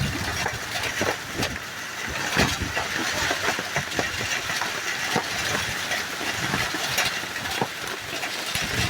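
Light rain: a steady hiss with many scattered, irregular taps of drips, over a low rumble.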